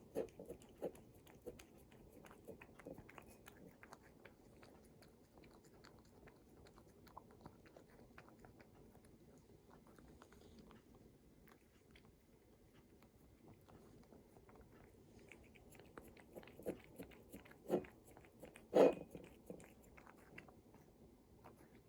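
Faint crunching and chewing, short crisp strokes in clusters near the start and again in the last few seconds, the loudest about nineteen seconds in, with a quiet stretch between.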